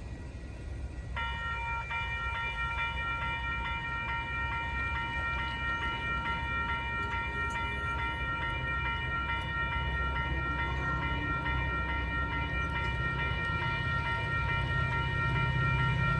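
A railroad grade-crossing warning bell starts ringing about a second in and keeps ringing steadily, while the low rumble of an approaching Metra diesel commuter train grows louder.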